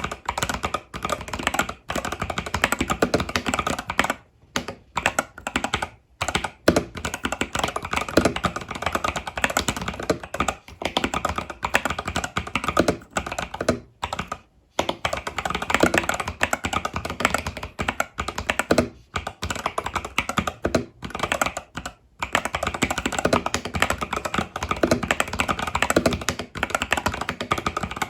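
Continuous fast typing on an Epomaker TH80 Pro mechanical keyboard with Epomaker Budgerigar tactile switches and stock keycaps. Dense runs of keystroke clacks are broken by several brief pauses.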